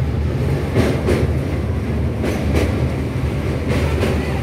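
Passenger train running along the track, heard from on board: a steady low rumble with paired clicks of the wheels crossing rail joints, a pair roughly every second and a half.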